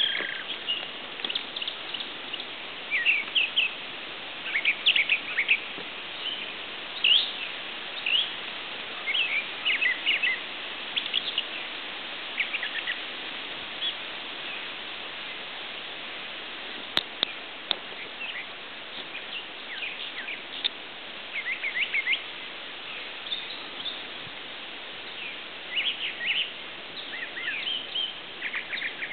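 Songbirds chirping and singing in short, repeated phrases over a steady background hiss, with a single faint click about halfway through.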